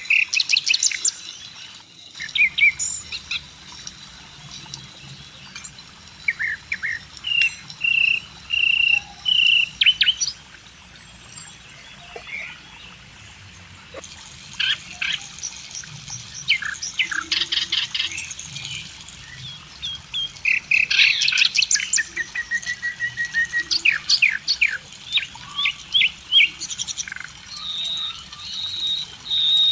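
Several songbirds chirping and singing outdoors, with many short chirps, quick trills and some thin, very high notes.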